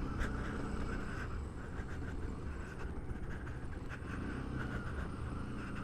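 Yamaha WR155's 155cc liquid-cooled single-cylinder engine running steadily while the bike is ridden, a low, even rumble.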